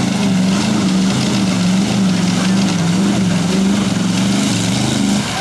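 Jeep CJ engine running hard under steady load, its pitch wavering slightly up and down, with a brief dip in level near the end.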